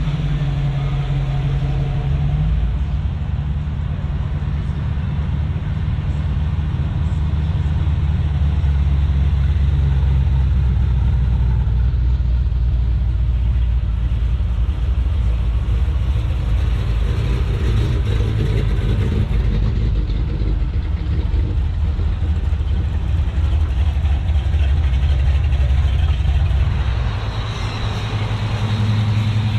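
Motor vehicle engine running steadily with a low hum, its pitch shifting about two seconds in and again near the end.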